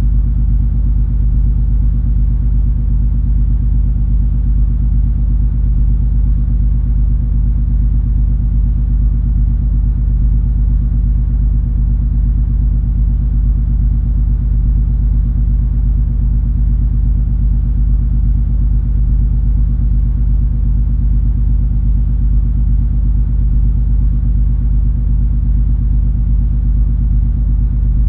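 Steady low engine drone and rumble of the cruise ferry MS Color Fantasy underway, with several steady hum tones in it.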